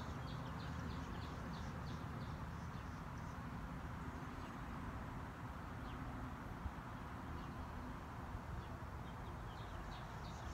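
Outdoor ambience with a steady low rumble and a small bird chirping in short high notes, about three a second, during the first few seconds and again near the end.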